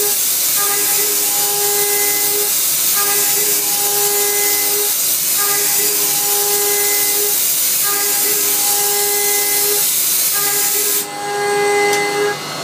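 CNC vertical mill cutting steel with a four-flute carbide endmill at high speed: a steady pitched cutting whine with overtones that breaks off briefly about every two and a half seconds as each circular pass of the pocket comes round. Under it runs a hiss that cuts off suddenly near the end while the whine goes on.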